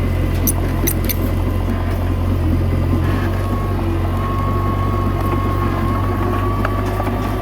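Komatsu D21A mini bulldozer's diesel engine running steadily at a low, even drone, with a few light clicks about half a second to a second in.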